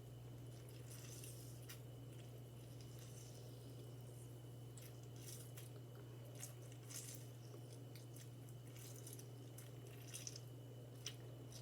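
Half a lemon being squeezed by hand: faint squishing and scattered small drips and clicks, over a steady low hum.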